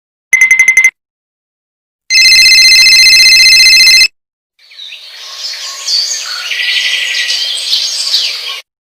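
Three sound effects in a row. First, a half-second burst of rapid electronic beeping. Next, about two seconds of a loud, rapidly trilling ring, the loudest part. Last, about four seconds of birds chirping, which stops abruptly.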